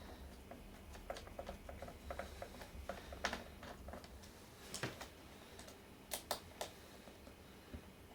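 Small scattered clicks and taps from a screwdriver and fingers working at the screws of a laptop screen bezel, with a few sharper clicks in the middle and latter part.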